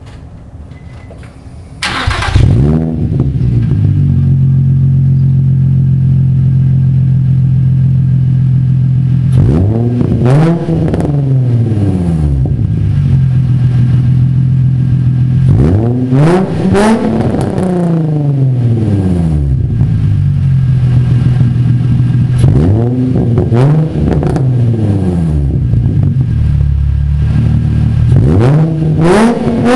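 Nissan 350Z's 3.5-litre V6 through a dual exhaust with an X-pipe, starting about two seconds in and settling into a steady idle. It is then revved up and let fall back to idle about four times, the last rev rising near the end.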